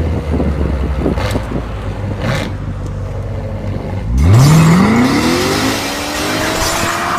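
A car engine rumbling low, blipped twice, then revving up hard in one long rising climb about four seconds in as the car accelerates; this climb is the loudest part.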